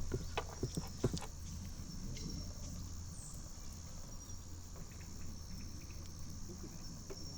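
A few light knocks and clicks of hands-on food preparation in the first second or so, then quiet handling over a steady high-pitched chirring of insects.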